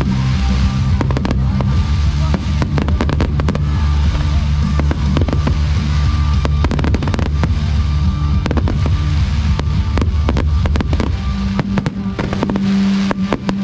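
Bonfire Night fireworks going off in rapid bangs and crackles throughout, over background music with a steady bass.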